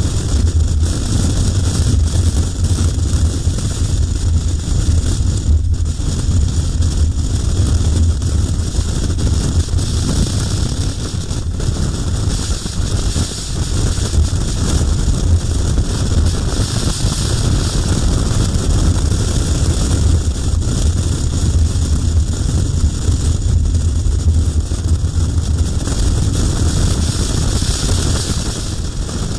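Steady wind rush buffeting the microphone of a KTM 1090R motorcycle at road speed, with the low drone of the bike running underneath.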